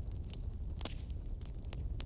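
Wood fire crackling: irregular pops and snaps over a low steady rumble, the loudest pop about a second in.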